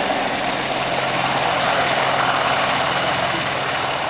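Aircraft at close range: a loud, steady roar with no let-up.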